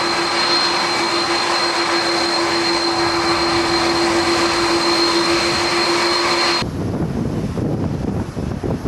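Jet airliner engines running with a steady whine over a loud rush of noise, cutting off abruptly about two-thirds of the way in. Wind buffeting the microphone follows.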